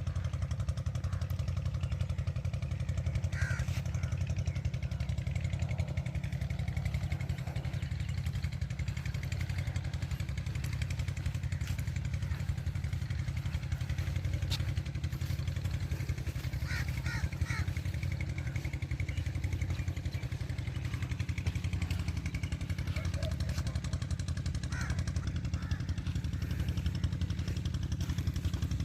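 Diesel engine of a tubewell water pump running steadily at constant speed, with a deep, even chugging.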